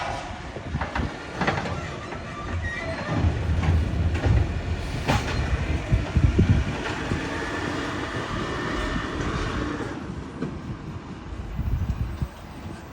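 Garbage truck at work: the diesel engine rumbles steadily, with sharp clanks and knocks about a second in and again around five seconds in, and a high whine for about three seconds in the second half.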